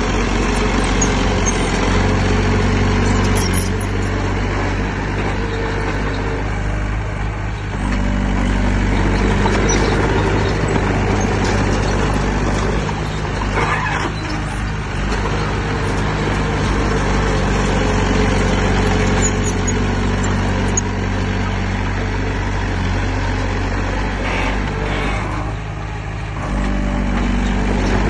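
Heavy diesel engine of earthmoving equipment running steadily, its note stepping up and down in pitch and loudness several times as the load changes.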